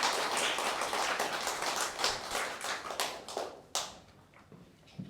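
Audience applauding. The clapping thins out and stops about four seconds in, ending with a last few scattered claps.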